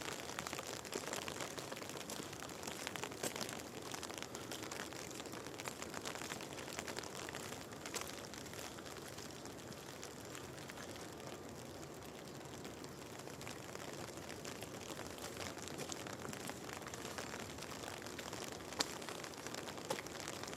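Steady rain falling, an even hiss with many small drops ticking sharply close by, and one louder tick near the end.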